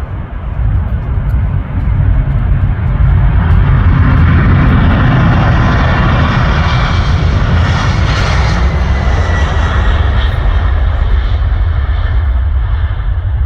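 Boeing 747 freighter's four jet engines at takeoff thrust. The roar grows louder over the first few seconds and peaks in the middle with a hiss and a faint falling whine, over a steady deep rumble.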